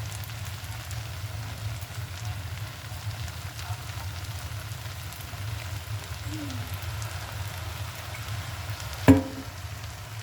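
Fried rice sizzling in a hot pan as it is stirred, with a steady low hum underneath. About nine seconds in there is one sharp knock with a brief ring, like a utensil striking the pan.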